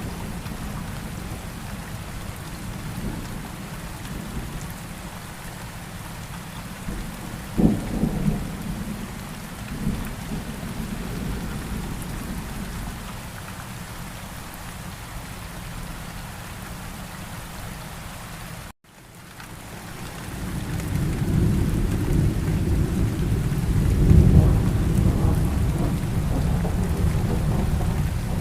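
Steady rain with thunder. A sharp thunder crack comes about eight seconds in and rumbles briefly. Later a long, low rolling rumble builds and peaks in the second half. The sound cuts out for an instant about two-thirds of the way through.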